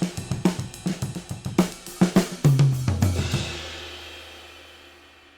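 Recorded drum kit played through a DBX 119 compressor/expander: a steady beat of kick, snare and hi-hat, ending about two and a half seconds in with two tom hits stepping down in pitch and a crash cymbal left ringing and fading away.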